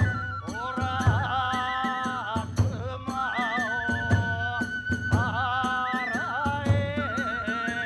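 Hiroshima kagura music: a high bamboo flute melody over regular drum beats about twice a second, with clashes of small hand cymbals.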